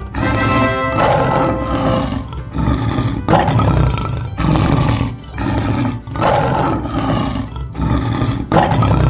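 Lion roar sound effect, repeated about seven times in quick succession, each roar lasting about a second.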